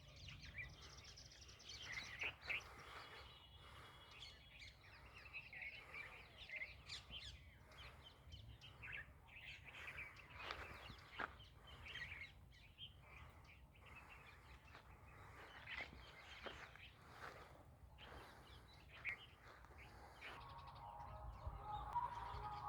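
Several small birds chirping and calling in short, scattered bursts over a faint steady low rumble. Near the end, a lower-pitched bird call with several stacked tones comes in.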